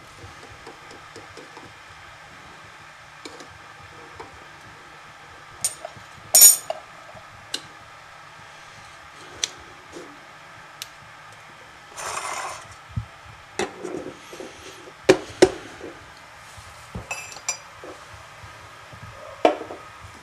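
Tea things clinking: cups, spoon and dishes knocked and set down in scattered, irregular strikes, some sharp and ringing, with a brief rustling burst about twelve seconds in.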